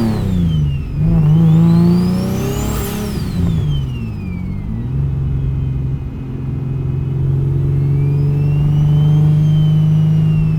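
Single-turbo Infiniti G37 sedan's 3.7-litre V6 on the road, with a high turbo spool whine climbing and falling as the engine revs up and eases off in the first five seconds. The engine then settles to a steady cruise, and a softer turbo whine rises and falls again near the end.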